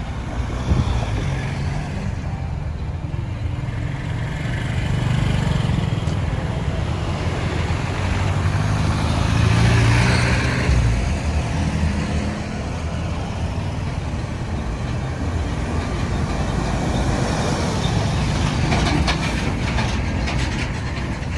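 Road traffic noise: cars, trucks and motorbikes going by, with one vehicle passing loudest about ten seconds in.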